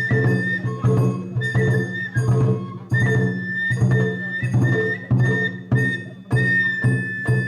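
Japanese festival hayashi music: a bamboo flute plays high piping notes, holding one long note near the end, over a steady beat of drum strokes about twice a second.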